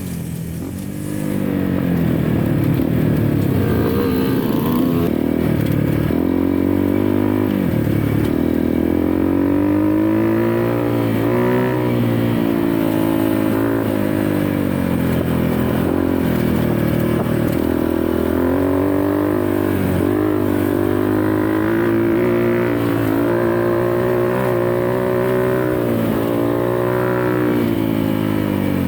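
Dirt bike engine being ridden hard off-road, its pitch rising and falling again and again with throttle and gear changes.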